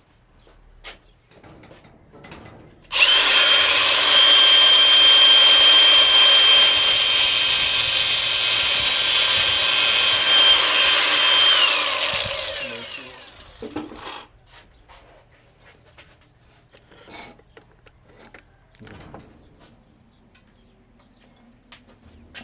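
Handheld power tool starts about three seconds in and runs steadily and loudly with a high whine for about nine seconds, then winds down. Faint knocks of handling follow.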